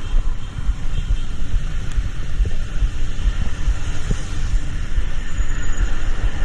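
A vehicle moving along the road: a steady, loud low rumble of engine and tyres, with wind buffeting on the microphone.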